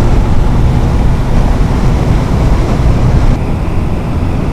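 Wind rushing over a helmet-mounted camera's microphone on a moving motorcycle, a loud steady rumble with the engine running beneath it. The hiss eases slightly a little after three seconds in.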